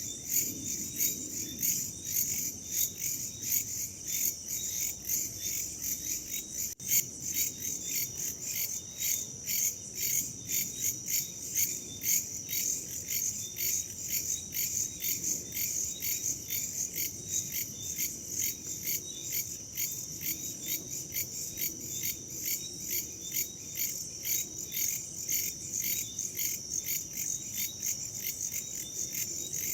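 Crickets chirping in a steady, fast, evenly pulsed chorus, high-pitched, over a soft low rush of wind. The sound briefly cuts out about seven seconds in.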